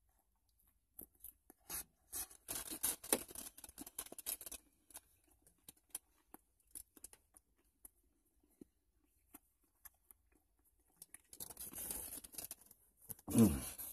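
Crunching and crackling of chewing a big bite of a sub sandwich, heaviest in the first few seconds and thinning to scattered clicks. Near the end comes a rustling handling noise, then a man's voice starts.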